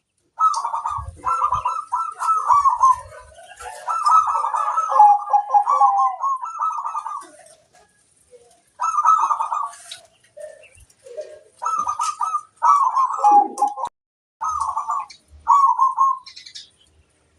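Zebra doves (perkutut) cooing in a string of quick, trilled phrases, each lasting one to three seconds, with short pauses between them. Faint high chirps sound above the coos.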